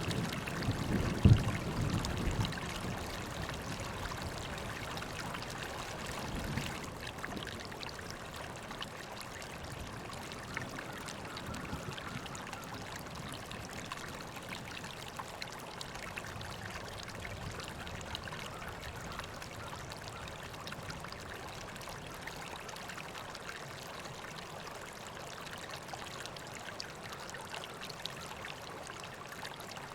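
River water flowing and babbling steadily. In the first couple of seconds a low rumble swells under it, with one sharp thump about a second in, then fades.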